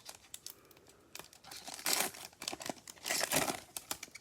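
Foil trading-card pack wrapper being torn open and crinkled in the hands, with louder bursts of crinkling about two and three seconds in.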